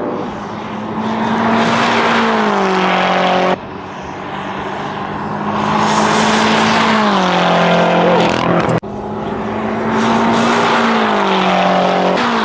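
BMW M5's 4.4-litre twin-turbo V8 at speed, heard in three abruptly cut shots. In each, the steady engine note drops in pitch toward the end.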